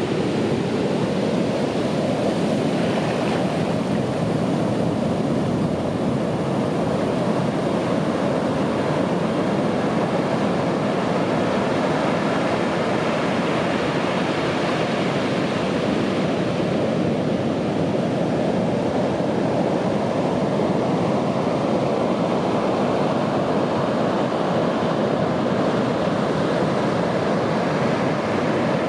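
Sea waves breaking on a beach: a continuous, steady wash of surf with a slow swell in the hiss partway through.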